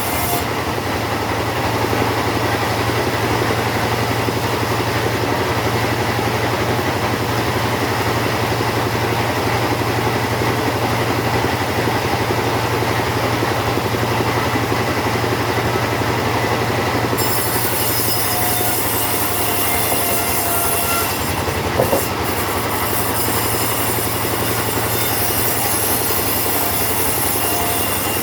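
Two-stroke chainsaw running steadily at high speed, cutting lengthwise through a teak log, with one brief knock a little past the middle.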